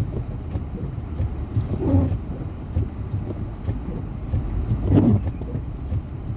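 Steady low rumble of a vehicle mixed with wind buffeting the microphone, with brief muffled voice sounds about two and five seconds in.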